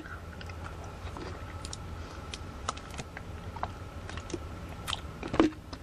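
A person drinking water: faint scattered small clicks and swallows, with one louder sound about five seconds in.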